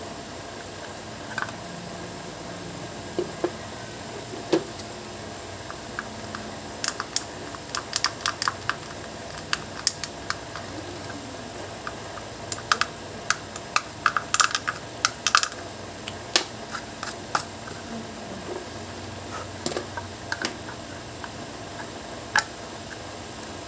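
Irregular light clicks and taps of small hard parts being handled, bunched into quick runs through the middle, over a steady background hum.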